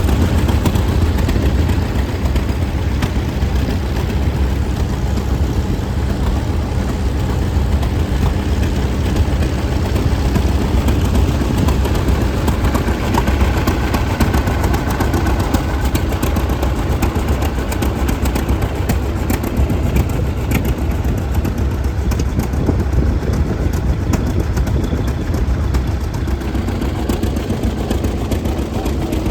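Antique farm tractor engines running steadily, with a rapid, even exhaust beat.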